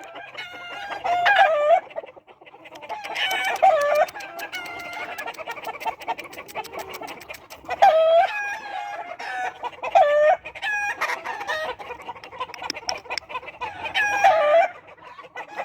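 Gamefowl roosters crowing over and over, one crow following another with others overlapping farther off.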